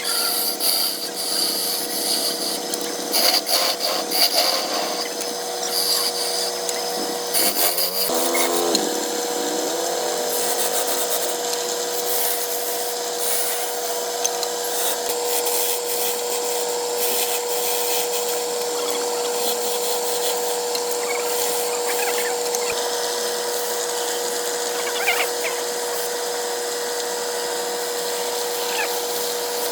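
Wood lathe running while a turning tool cuts the spinning wood: irregular scraping and clicking for the first several seconds, then a steady tone with lighter cutting noise over it.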